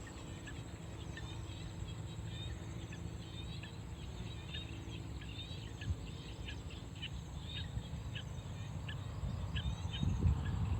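Evening chorus of small birds giving many short, high chirps in quick succession, over a low steady rumble that grows louder near the end.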